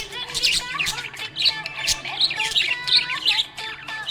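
Budgerigars chirping and chattering in rapid, overlapping calls.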